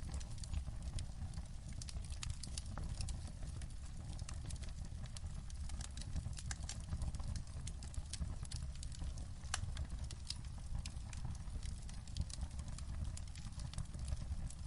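Wood fire in a fireplace crackling, with many small sharp pops at irregular moments over a steady low rumble.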